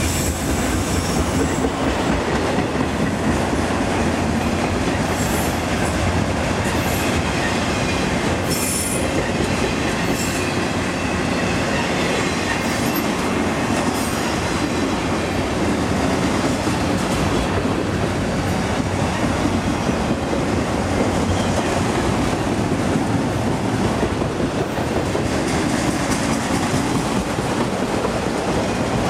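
Norfolk Southern autorack freight train rolling past, its cars' wheels running steadily and loudly on the rails, with brief high wheel squeals in the first half.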